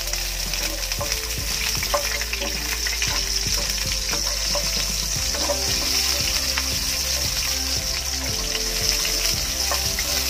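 Garlic and red onion sizzling steadily in hot oil in a stainless steel pan, with scattered scrapes and taps of a plastic spatula stirring them against the pan.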